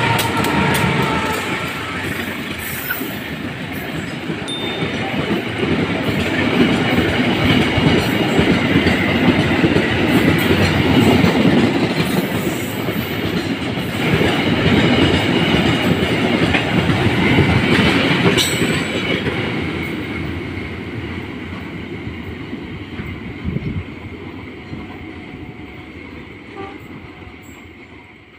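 A CC204 diesel-electric locomotive passes close by, hauling a train of fuel tank wagons, with engine noise and wheels clattering over the rails. The sound stays loud through the middle, then fades over the last several seconds as the last wagons pull away.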